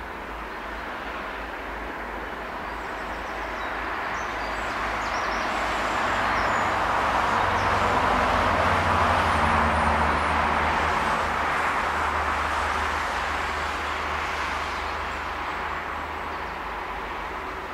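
A train passing by out of sight: rolling wheel-and-rail noise that swells to its loudest about halfway through and then fades, with a low hum underneath.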